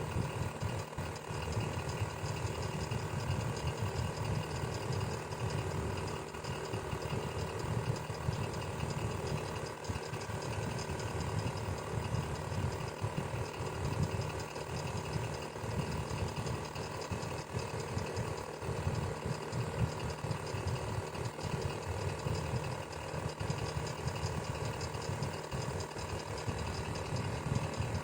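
Electric fan running steadily: a continuous motor hum with a low, fluttering whir of the blades.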